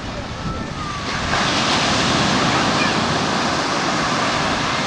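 Ocean waves washing onto the shore: a rushing surge swells up about a second in and holds.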